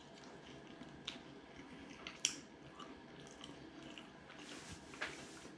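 A person chewing a mouthful of steak pie and pastry, quietly, with a few soft mouth clicks; the sharpest comes a little after two seconds in.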